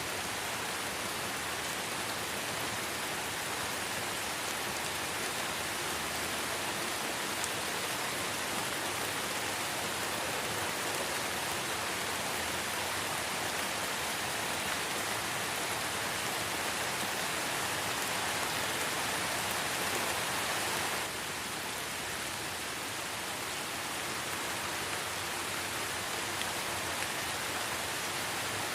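Light rain falling steadily in a forest, an even hiss of drops on leaves. About two-thirds of the way through, the level drops slightly and suddenly.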